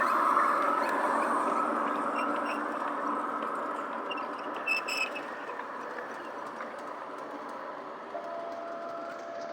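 G-scale garden model train running over the track with a steady rushing rattle, loudest at the start and slowly fading as it moves off. A few light clicks come about halfway through, and a thin steady tone joins near the end.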